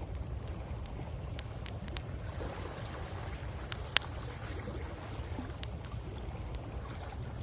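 Wood fire crackling with scattered sharp pops, one louder pop about four seconds in, over the steady low rumble and wash of sea waves on the shore.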